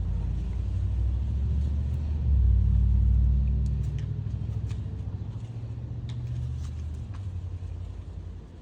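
A low engine rumble that swells about two seconds in and then slowly fades away, with a few faint light clicks in the second half.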